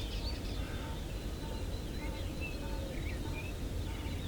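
Faint scattered bird chirps and short whistles over a steady low outdoor background rumble.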